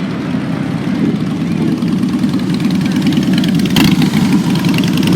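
Motorcycle engines running at idle, a steady fluttering drone. One sharp knock about four seconds in.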